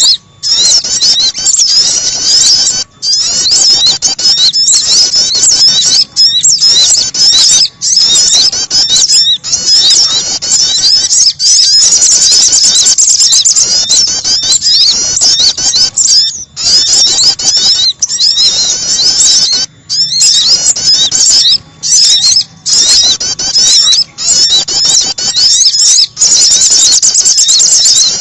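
Rapid, high-pitched chirping and trilling of small songbirds, a looped bird-luring call of sogon and prenjak (prinia), with short breaks every second or two.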